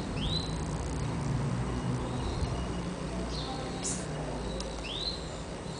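Birds chirping: a few short, high rising calls, one near the start and one about five seconds in, with a brief falling call and a high burst between them, over a low steady rumble.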